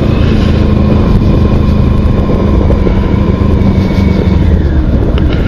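Motorcycle engine running at a steady speed on the road, with a continuous haze of road and wind noise.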